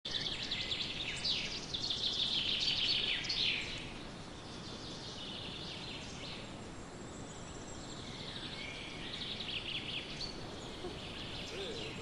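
Small birds singing in rapid high trills and chirps, loudest over the first three and a half seconds and returning in shorter phrases later, over a steady outdoor background hiss.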